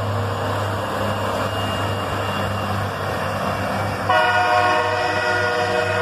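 Loram shoulder ballast cleaner train running past with a steady diesel engine hum and rumble. About four seconds in its air horn sounds, a held multi-tone chord that carries on past the end.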